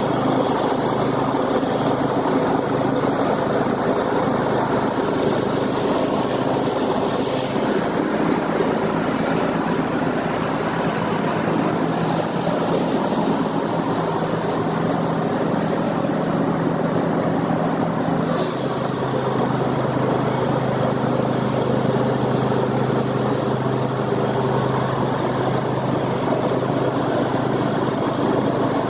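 A large engine running steadily, its tone shifting about 8 seconds in and again around 18 seconds in.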